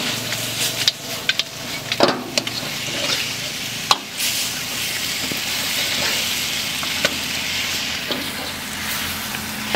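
Chicken masala sizzling in a blackened iron kadai while a long metal spatula stirs and scrapes through it. The spatula strikes the pan in sharp clinks, several in the first four seconds and one more at about seven seconds.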